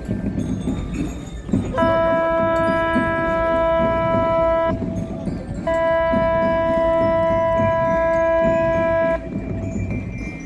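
Ship's horn sounding two long, steady blasts, each about three seconds, with a short gap between them, over low background rumble.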